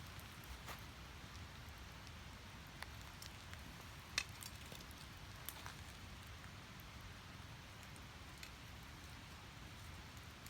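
Firewood burning, crackling with scattered sharp pops, one louder pop about four seconds in, over a faint steady hiss.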